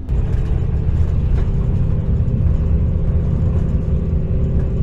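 Motor vehicle driving, heard from inside the back of the vehicle: a loud, steady low rumble with a droning hum, jumping up in loudness at the very start.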